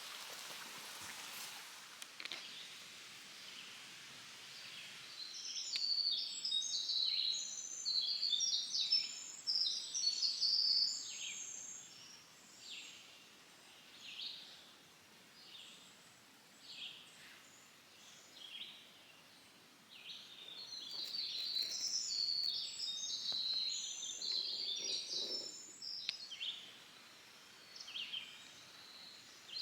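Small birds chirping and twittering outdoors: two long stretches of many quick, overlapping high calls, with single chirps in between. A soft hiss fades out in the first couple of seconds.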